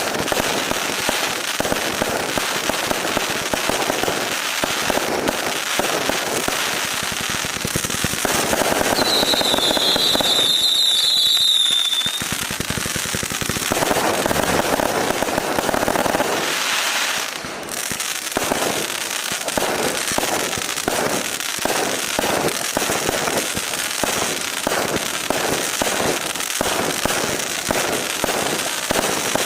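A 1200-shot 0.6-inch fireworks cake firing a continuous, rapid volley of small shots. Its densest barrages come in the middle, with a high wavering whistle for a few seconds, and it settles into a quick, even stream of pops near the end.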